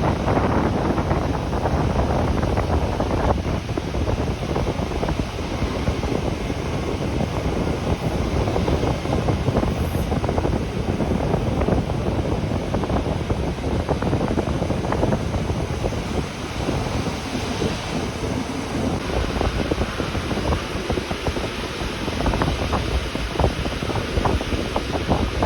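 Rhaetian Railway regional train running, heard from on board: a steady rumble with many short rattles and clicks from the running gear and carriage.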